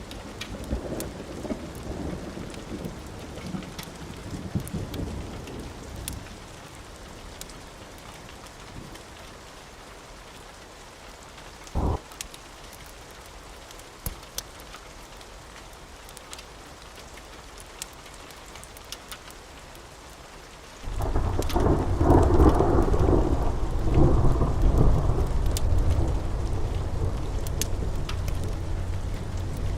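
Steady rain with rolling thunder: a rumble dies away over the first few seconds, then a loud thunder rumble breaks in suddenly about two-thirds of the way through and keeps rolling. Small pops and crackles from a wood fire come through the rain, with one sharper crack near the middle.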